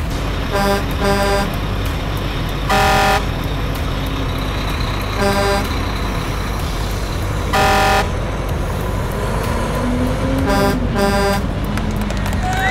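A truck horn honking again and again, in short double toots and longer single blasts, over a steady engine rumble that rises and falls in pitch. These are dubbed fire truck driving sounds.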